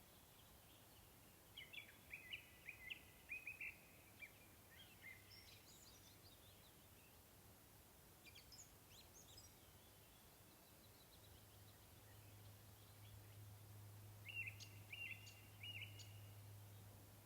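Faint songbird song in three short bursts of rapid high chirps and trills, over quiet outdoor ambience. A faint low hum rises about two-thirds of the way through.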